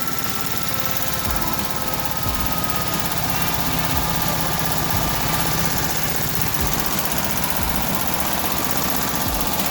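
VW Beetle 36hp air-cooled flat-four engine running steadily at idle.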